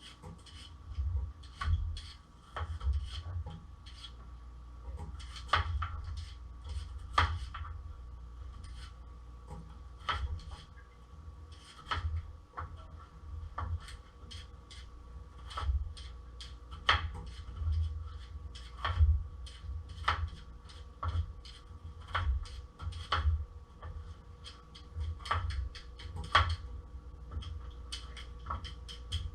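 Knife knocking on a cutting board as potatoes and carrots are cut up: single sharp knocks at uneven spacing, roughly one a second, with duller thuds of handling between them.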